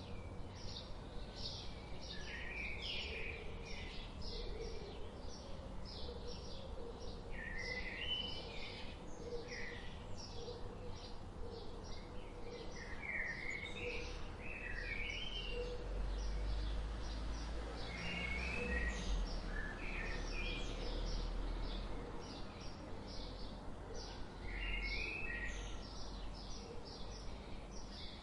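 Several songbirds singing throughout: rapid repeated high chirps and warbled phrases. Beneath them is a steady low rumble that swells about halfway through.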